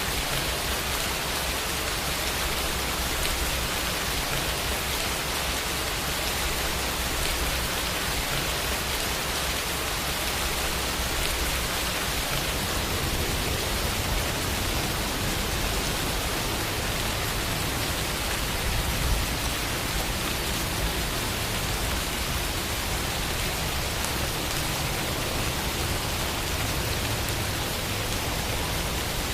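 Steady rain, an even hiss of falling drops with no other sounds, and a single slightly louder patter about two-thirds of the way through.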